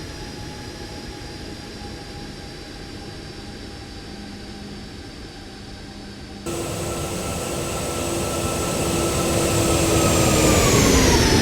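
Boeing 777-300 jet engines: a steady whine over a rumble, cut abruptly about six and a half seconds in to a much louder, close pass. In the louder part the whine and rumble swell, then fall in pitch together near the end as the aircraft goes by.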